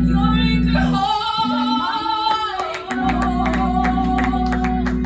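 Church worship music: a voice singing a melody over steady held low notes, with sharp percussive hits keeping the beat from about halfway in.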